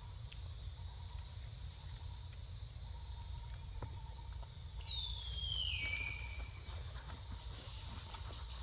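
Outdoor ambience with a steady low rumble and faint scattered clicks. About five seconds in, a single high whistle-like call glides down in pitch, levels off briefly, then stops.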